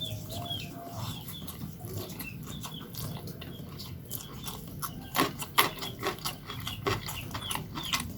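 Birds chirping in short, repeated falling calls, with a run of sharp clicks and knocks about five to seven seconds in.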